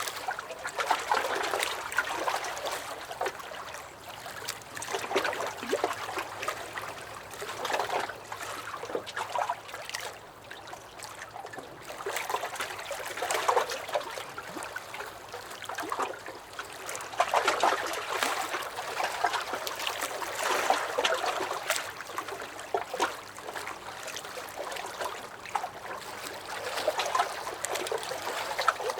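Small lake waves lapping and sloshing against a dock, an irregular trickling, splashing wash that swells every few seconds.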